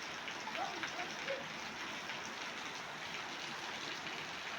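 Steady rain falling: an even hiss with scattered drop patter.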